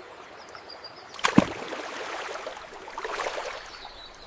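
A sudden water splash about a second in, with splashing running on for a couple of seconds, over a steady background of running water.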